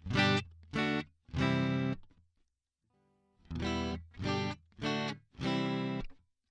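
Electric guitar played through a Boss MD-500 modulation pedal's Overtone engine: a short phrase of three plucked notes, a pause of about a second and a half, then the phrase again with four notes.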